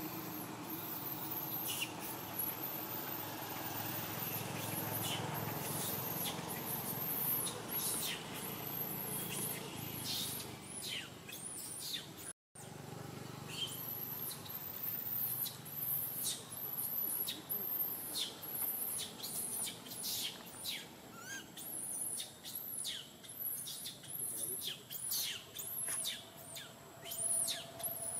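Birds chirping: many short, very high-pitched calls, each sliding steeply down in pitch, coming in quick irregular runs. A low steady hum runs underneath in the first half.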